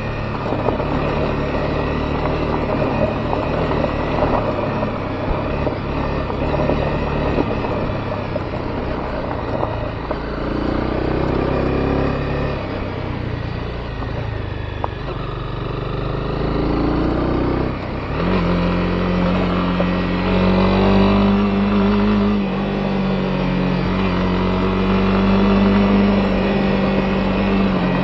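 Honda CB250R's single-cylinder engine running under way on a dirt road, with road and wind noise. Its pitch shifts up and down for the first two-thirds, then settles into a steady drone.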